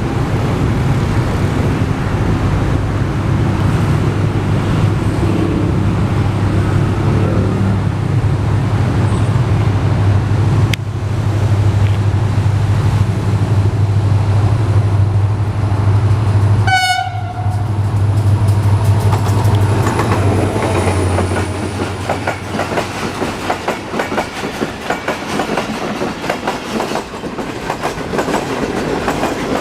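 HGMU-30 diesel-electric locomotive passing with a steady low engine drone, giving one short horn blast about two-thirds of the way in. After that the engine sound fades and the coaches clatter rhythmically over the rail joints.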